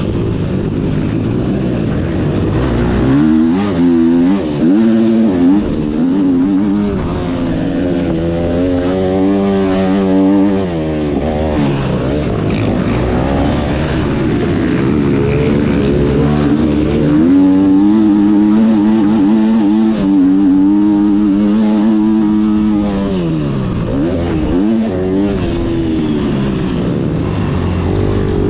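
Motocross bike engine revving hard, its pitch repeatedly climbing and dropping as the throttle opens and closes, held high for several seconds near the middle.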